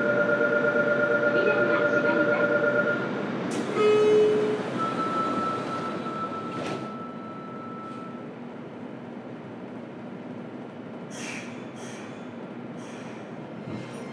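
Inside a JR Kyushu 303 series train car standing in an underground station: steady electronic chime tones for about three seconds, then a sharp clunk, a short beep and a longer flat tone. It goes quieter after that, with several short hisses near the end.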